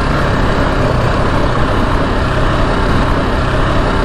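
KTM 690 Enduro R's big single-cylinder engine running steadily under a constant rushing noise.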